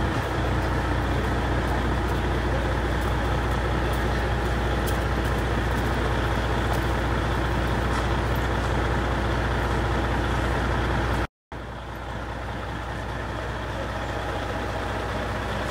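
A motor vehicle's engine running steadily with a low rumble. About three-quarters of the way through it cuts out briefly, then comes back quieter and slowly grows louder.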